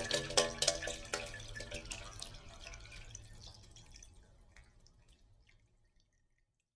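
Shower water spraying and splashing, tapering off over a few seconds to scattered drips, then silence near the end.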